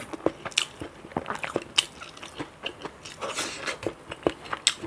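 A person chewing and crunching food up close to the microphone, with irregular sharp crunches and wet mouth clicks several times a second.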